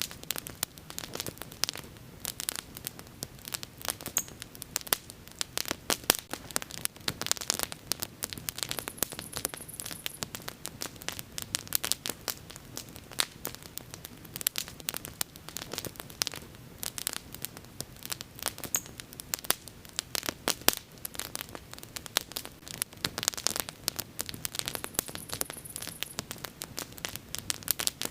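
Bonfire crackling and popping: dense, irregular sharp snaps of burning wood over a steady low noise of the flames.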